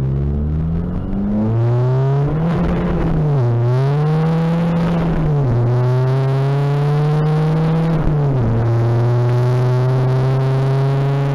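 Tuned Seat Ibiza TDI turbodiesel pulling hard under full acceleration, heard from inside the cabin. The engine pitch climbs steadily through each gear and drops sharply at three upshifts, about three and a half, five and a half and eight seconds in.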